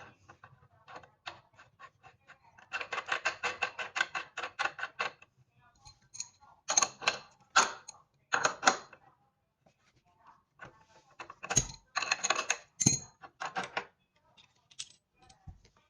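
Runs of rapid, evenly spaced clicking with scattered knocks: hand tools working on metal parts of an exercise bike.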